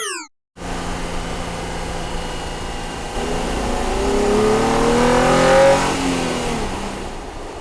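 Cartoon car engine sound effect, running steadily, then revving up with rising pitch and winding back down near the end.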